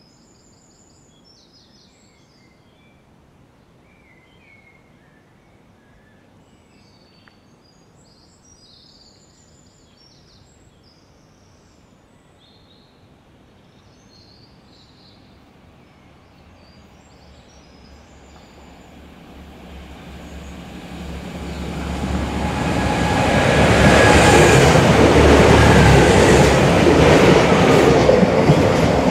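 Birds chirping over a quiet background, then an Irish Rail 29000 class diesel multiple unit approaching. Its engines and wheels on the rails grow louder from about halfway through and are loud for the last few seconds.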